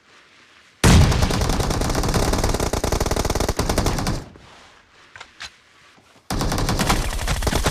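Video-game automatic gunfire: a sustained burst of rapid shots starting about a second in and lasting some three seconds, then a second burst starting near the end.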